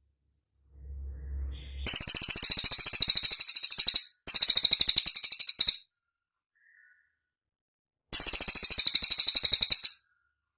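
A cililin bird calling in fast, dry trills of about ten high notes a second, in three bursts of a second and a half to two seconds each.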